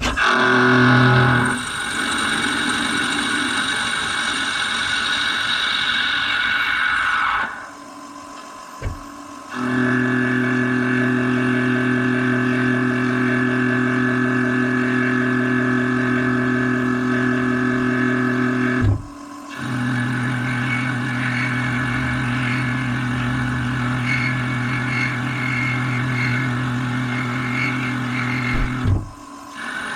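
CNC lathe running as it turns small brass boiler plugs: a steady machine hum with higher whining tones, cutting out briefly three times before starting up again.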